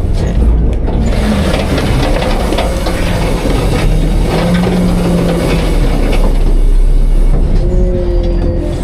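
Autocar-Heil Freedom front-load garbage truck running hard, with the engine pulling under load and the hydraulics whining as it works its packer. Steady and loud, with a higher whine coming in near the end.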